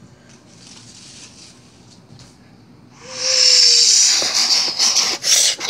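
A loud hissing rush, like escaping steam, starts about three seconds in with a brief low steady tone at its start. It then breaks up into choppier surges.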